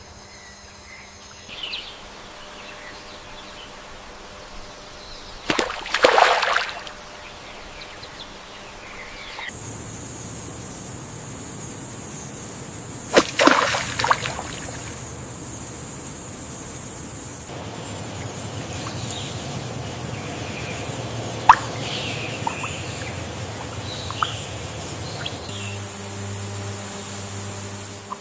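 Wetland nature ambience: a steady hiss of water and wind that changes abruptly several times, with two brief, louder splashes about six and thirteen seconds in and a few short bird chirps later on.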